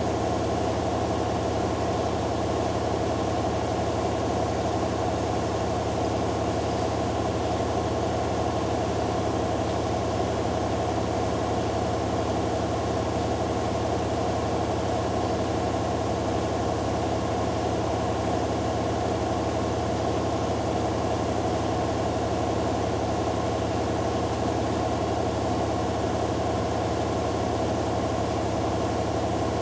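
Hoover Dynamic Next DXA610IW3 front-loading washing machine in its spin cycle, the drum spinning at a steady speed with a constant hum and whir of the motor and drum.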